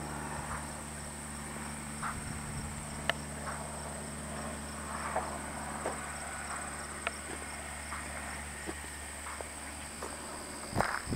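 1999 Mustang GT's 4.6-litre V8 idling steadily through long-tube headers, an off-road X-pipe and Flowmaster mufflers, with insects chirping steadily in the background.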